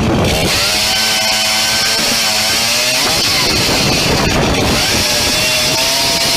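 A small engine running loudly, its pitch rising and falling several times as it revs up and down.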